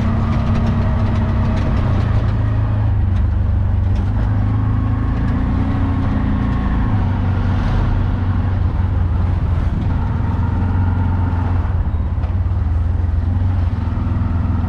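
A motor vehicle engine idling close by, a loud steady hum whose pitch drops slightly about halfway through.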